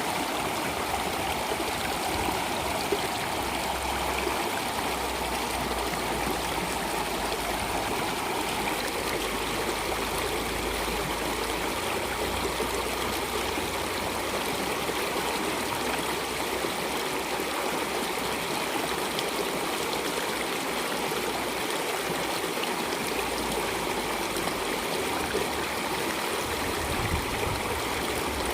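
Flowing stream water running steadily, an even rush with trickling and gurgling.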